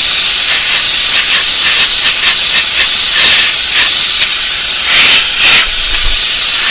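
Airbrush hissing as it sprays paint onto a lure, with quick repeated swells in the spray.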